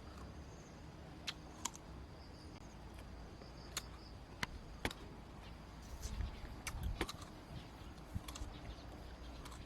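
Scattered sharp clicks and taps, about a dozen, irregularly spaced, over a low steady rumble of outdoor background, with a faint high thin tone in the first few seconds.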